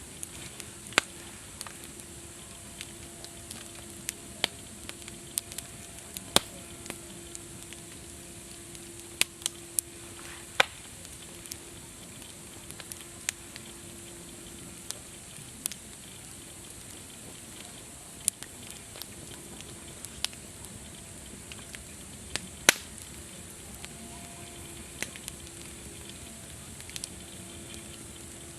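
Campfire burning: a steady hiss with irregular sharp pops and snaps from the wood.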